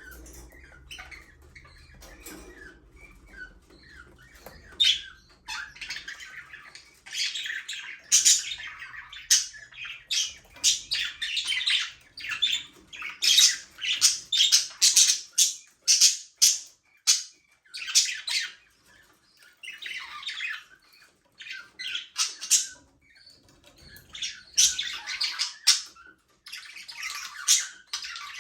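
Budgerigars chattering, chirping and squawking: quiet for the first few seconds, then loud clusters of rapid high calls in several bursts.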